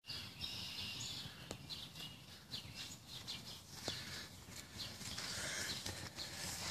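Songbirds chirping: many short, high chirps a few times a second over a low steady outdoor rumble.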